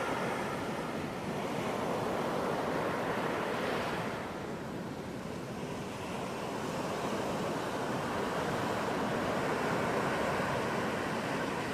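Ocean surf breaking on a beach: a steady wash of waves that eases off about four seconds in and builds again toward the end.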